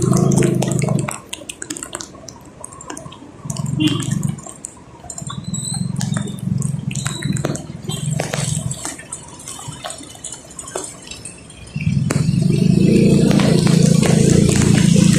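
Rain dripping and tapping in scattered ticks over a vehicle engine that runs in spells, then runs steadily and louder from about twelve seconds in.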